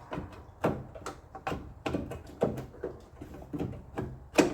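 Irregular clicks and knocks from hand work on a car door's inside latch mechanism as it is fitted and bolted back up, with one louder knock near the end.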